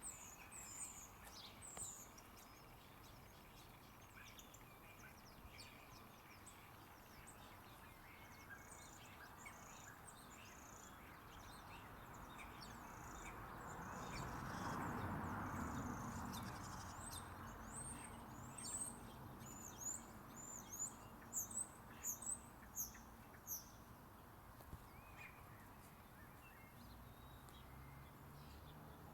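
Small birds giving short, high chirps over and over, busiest in the second half. A low rushing noise swells and fades away about halfway through.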